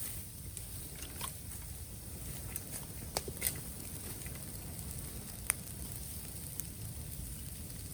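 Bamboo bonfire crackling, with scattered sharp pops and snaps, the clearest a little past three seconds in and about five and a half seconds in.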